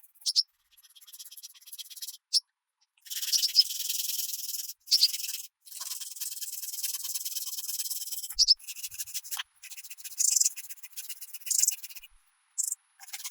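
Dry, scratchy rubbing in a series of short bursts that start and stop abruptly, with fully silent gaps between them and a few brief squeaky high tones.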